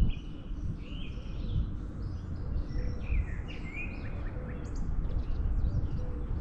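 Small birds chirping and calling, with a cluster of short calls around the middle, over a steady low rumble.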